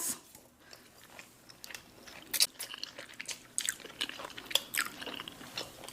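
Chewing a mouthful of black bean noodles close to the microphone, with a run of short wet mouth clicks and smacks.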